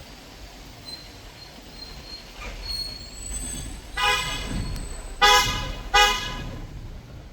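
A vehicle horn honking three times in traffic: a longer blast followed by two short, loud ones in quick succession.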